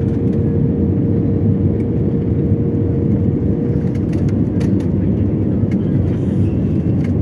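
Airliner cabin noise during the landing approach: steady low engine and airflow noise, with a steady hum that fades out about four seconds in.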